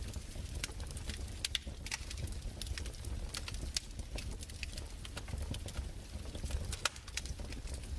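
Fireplace fire crackling: irregular sharp pops and snaps, several a second, over a steady low hum.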